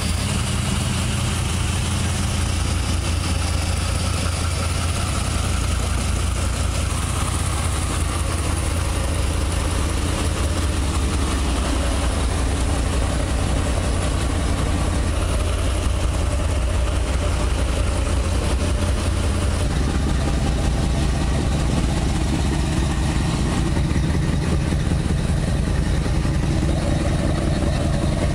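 First-generation 350 Chevy small-block V8 with Vortec heads, front-mounted in a 1973 VW Beetle, idling steadily with a low, even rumble.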